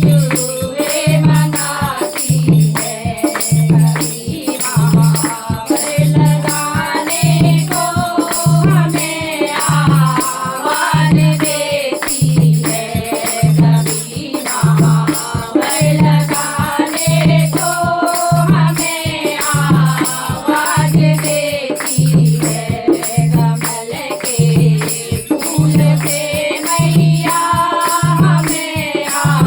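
Hindi devotional bhajan: a sung melody over a steady low drum beat, about one and a half beats a second, with rattling jingle percussion throughout.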